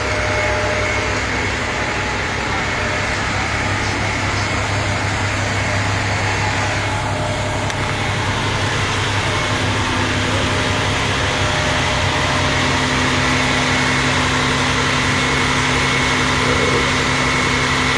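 Vehicle engines idling with a steady low hum.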